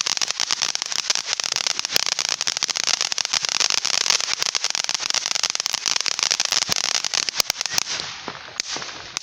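Firework crackling: a dense run of small sharp pops over a steady hiss, which fades and thins out near the end.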